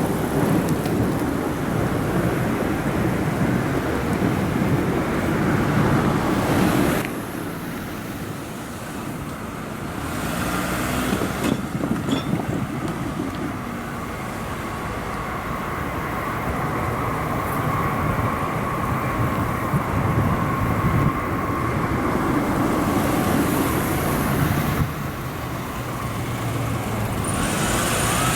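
Meitetsu electric commuter trains running past on the tracks. A heavy rumble for the first seven seconds stops abruptly, then a quieter run with a steady high whine, and the rumble builds again near the end.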